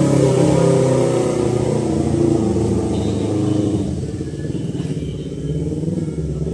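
Road traffic: a motor vehicle's engine running close by, its low, steady hum fading away about four seconds in.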